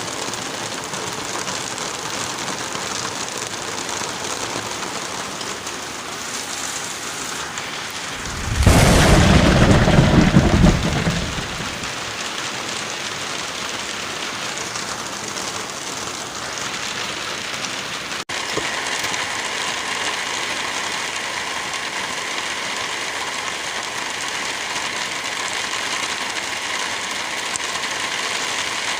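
Steady rain and wind hiss through forest. About eight seconds in, a loud low rumble lasts around two and a half seconds, then drops back to the steady hiss. A brief dropout comes a little past halfway.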